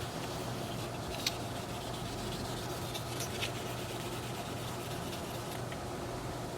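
Abrasive polishing pad rubbing over the plastic housing of an Oster 76 hair clipper, a steady scratchy sound over a constant low hum, with a few small clicks.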